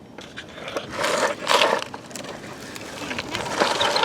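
Plastic toy construction vehicle scraping and rattling in sand, in two short noisy bursts, one about a second in and one near the end.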